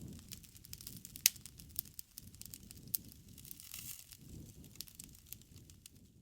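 Wood bonfire crackling, with many sharp pops and snaps over the low rumble of the flames; one pop about a second in stands out as the loudest.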